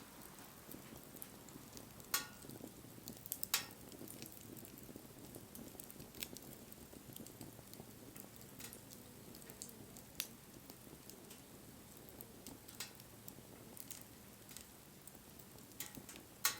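Wood fire burning with a soft steady hiss and scattered sharp crackles and pops, the loudest about two seconds in, again near four seconds, and just before the end.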